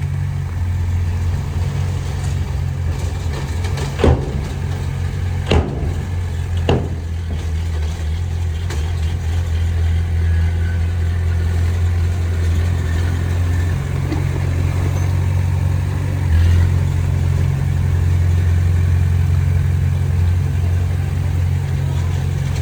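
Diesel engine of heavy earthmoving machinery running steadily with a deep hum, with three sharp knocks about four, five and a half and seven seconds in.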